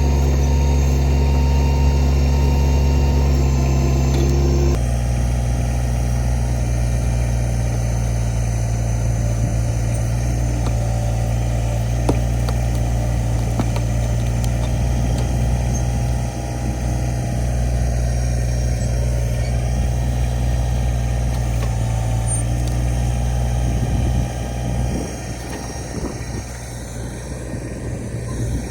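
Small tractor's engine running steadily while it powers the backhoe digging out a stump. Its note changes abruptly about five seconds in and gets quieter near the end.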